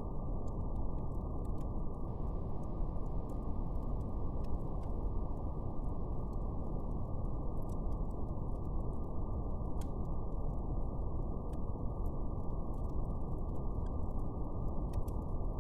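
Steady brown noise, a deep even rushing hiss with nothing above the low and middle range, with faint scattered crackles of a fire over it.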